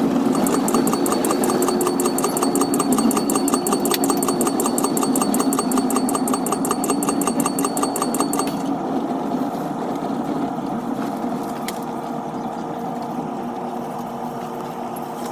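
Caltrain commuter train heard from its gallery cab car, sped up fourfold: a steady running hum with a rapid, even ticking that stops about eight and a half seconds in as the train slows to a halt at the terminal, after which a quieter steady hum remains.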